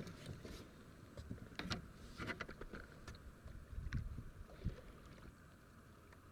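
Light, irregular knocks and clicks on a plastic kayak, with faint water sounds, while a hooked fish is fought from the boat.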